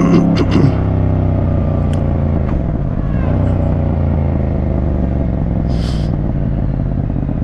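Motorcycle's parallel-twin engine running steadily at low revs while under way. A brief hiss comes about six seconds in.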